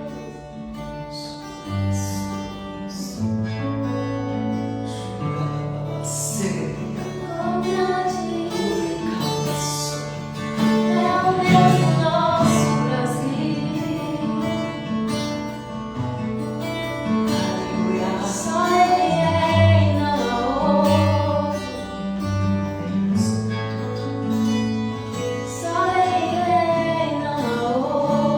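Worship music: a band with guitar and bass playing a slow praise song, with singing that grows stronger about a third of the way in.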